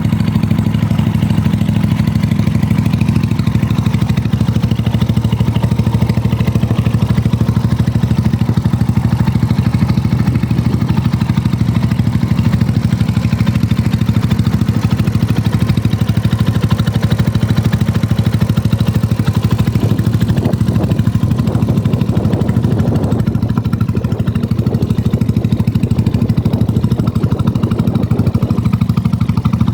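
Mutt Akita 250 motorcycle's single-cylinder engine idling steadily.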